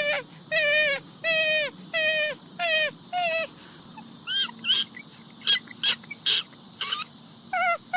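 An animal giving repeated high-pitched whining calls, about two a second, each wavering and dropping in pitch. Partway through they give way to a few shorter, higher squeaks, then the whining calls resume near the end.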